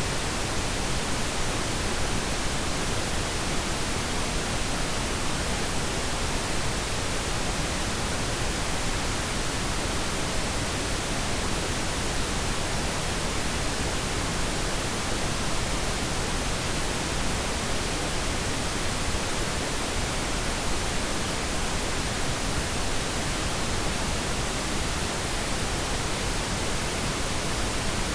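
Synthetic pink noise: a steady, even hiss that is softer and deeper than white noise, unchanging throughout.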